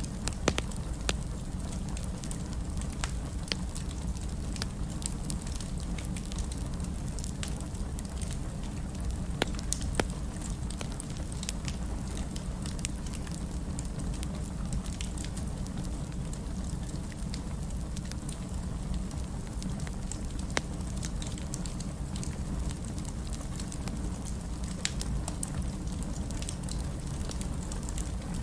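Wood fire burning in a fireplace: irregular crackles and sharp pops over a steady low rumble of the flames, with a few louder pops about nine to ten seconds in.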